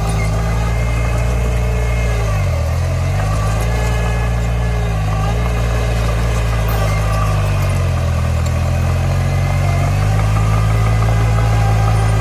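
Komatsu D20 bulldozer's diesel engine running steadily. Its pitch dips sharply about two and a half seconds in and recovers, dips again more gently a couple of seconds later, and climbs slightly toward the end.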